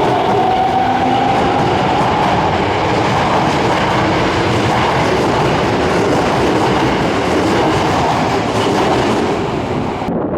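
Subway train pulling out of the station: its electric traction motors whine, rising in pitch over the first second, then give way to a steady loud rush of wheel and rail noise that eases slightly near the end.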